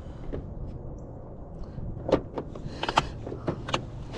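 Small hard items clattering and knocking, several sharp clicks clustered in the second half, as gear is rummaged through for a pair of pliers, over a steady low background rumble.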